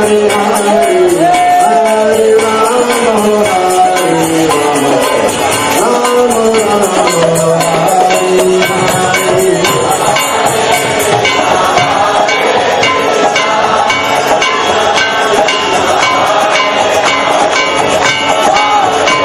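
Devotional music: a voice singing a bending melody over jingling hand percussion and drum. The singing fades about halfway through while the instruments keep playing.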